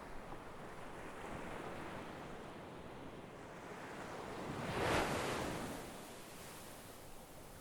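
Sea waves washing onto the shore: a steady rush of surf that swells as a wave breaks about five seconds in, then fades back.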